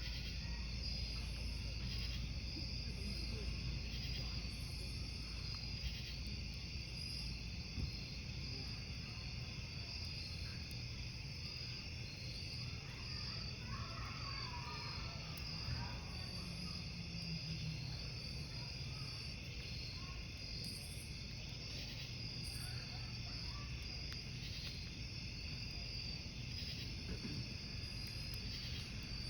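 Crickets chirping steadily over a crackling wood campfire, with a few sharp pops from the burning wood.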